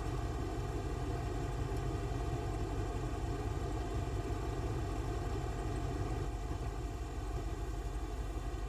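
A steady mechanical hum: a constant low rumble with an even drone of tones, unchanging throughout, like a motor or engine running.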